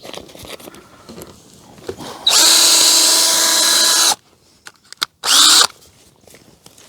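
Cordless drill/screw gun running in a steady burst of about two seconds, then a short half-second burst, putting drywall screws or pilot holes through a 1x1 wood strip.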